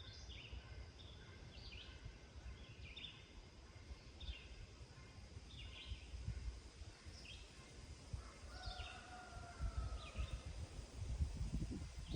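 Songbird singing short, high phrases about once every second or so, with a longer, lower call near the middle. Underneath is a low wind rumble on the microphone that grows stronger toward the end.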